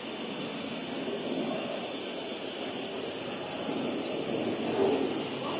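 Jet engines of an FDA Embraer regional jet climbing away after takeoff, heard from afar: a steady engine rumble under a constant high hiss.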